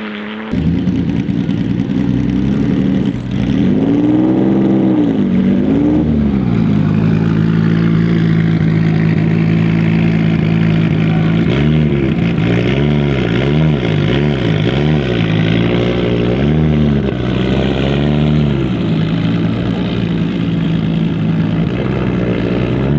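Audi Sport Quattro S1 E2's turbocharged inline five-cylinder engine idling, with throttle blips. One rev rises and falls about four seconds in, and a quick series of blips follows in the middle of the stretch.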